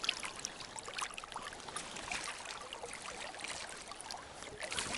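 Water trickling and splashing, with many small scattered clicks and taps.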